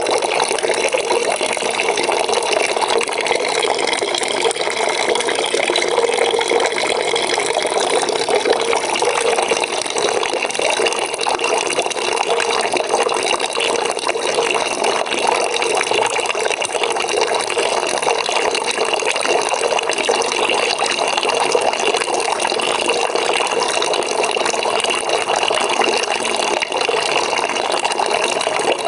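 Water pouring from a tap into a bucket, a steady even rush of filling water.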